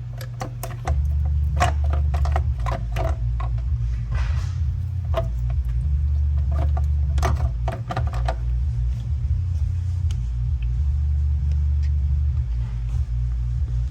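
Hand tools and bolts clicking and clinking metal on metal, many short knocks in the first eight seconds or so and only a few after, over a steady low rumble.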